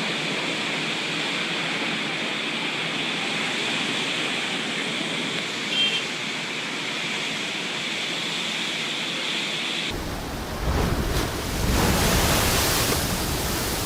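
Steady rushing noise of sea surf and spray, with a brief high beep about six seconds in. About ten seconds in it changes abruptly to louder breaking waves with wind buffeting the microphone.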